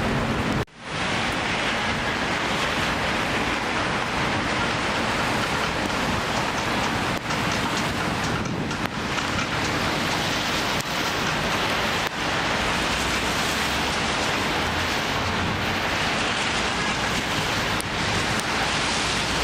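Heavy thunderstorm rain pouring down, a dense, steady hiss, broken by a brief gap under a second in.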